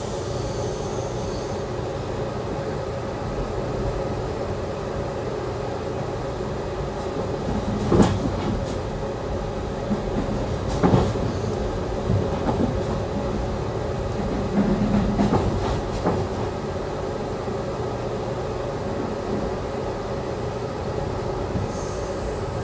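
Amtrak passenger train in motion, heard from inside the coach: a steady rumble and hum. Sharp knocks about a third of the way in and again about halfway through stand out above it.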